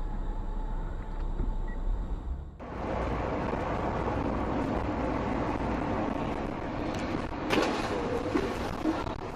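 Steady road and engine noise of a car driving, recorded by a dashcam. The noise changes abruptly about two and a half seconds in. A few sharp knocks come about three quarters of the way through, the first the loudest.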